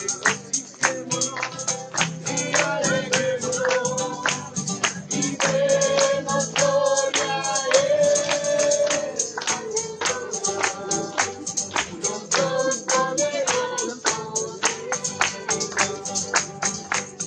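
Live group worship music: a tambourine keeping a steady, fast beat under voices singing a held, wavering melody.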